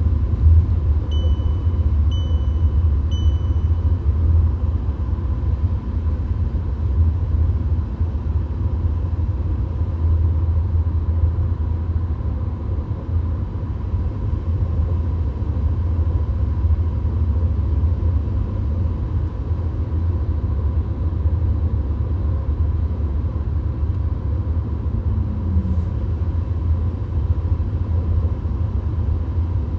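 VW Golf at motorway speed heard from inside the cabin: a steady low rumble of road and engine noise. Near the start, three short high electronic beeps sound about a second apart.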